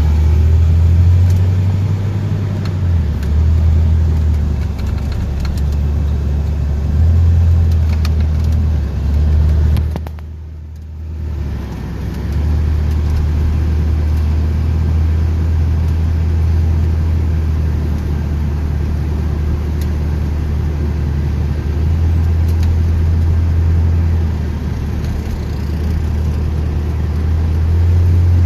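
A 1979 Corvette's L82 350 small-block V8 running as the car is driven, a loud, steady low rumble whose pitch steps up and down several times. It drops briefly about ten seconds in.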